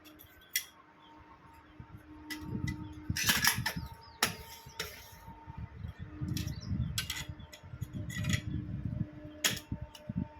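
Metal parts of a multistage high-pressure pump clicking and knocking irregularly as they are handled and fitted together during assembly, over a faint steady hum.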